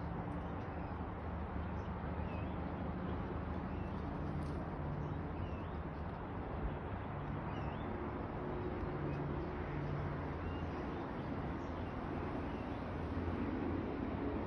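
A few faint, short bird chirps over a steady low rumble like distant traffic.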